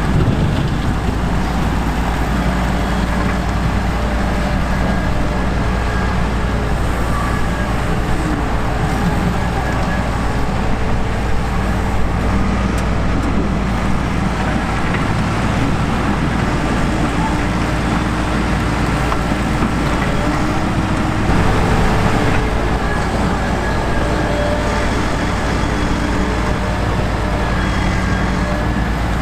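Heavy diesel beet-harvest machinery running steadily, with several engine tones drifting up and down in pitch.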